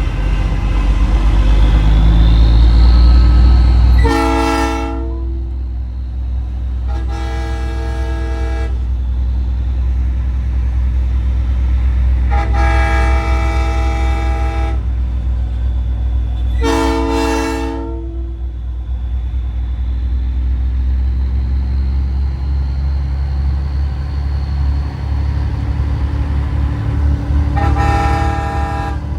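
Nathan Airchime train-style air horn on a semi truck sounding five blasts of a several-note chord, some short and some held for two or three seconds, the fourth stuttered. Underneath runs the steady low rumble of the truck's diesel engine, heaviest in the first few seconds.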